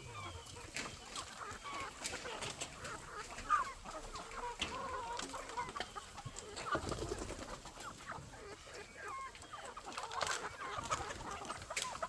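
A flock of chickens clucking and calling, many birds at once, with scattered sharp clicks and a brief low rumble about seven seconds in.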